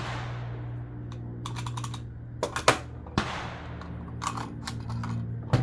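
5.56 rifle fitted with a B&T VERS36 titanium flow-through suppressor firing single shots, a few sharp reports a couple of seconds apart with the action clattering, the loudest about two and a half seconds in. A steady low hum runs underneath.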